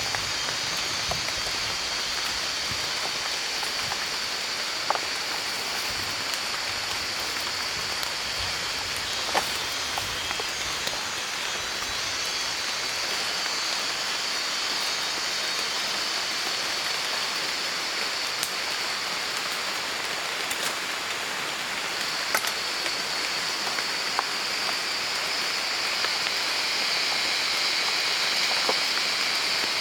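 Steady outdoor hiss like falling rain, with a high, continuous buzz over it that gains a lower second band near the end, and scattered small clicks.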